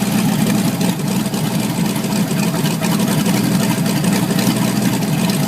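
A boat's port inboard engine idling steadily after start-up.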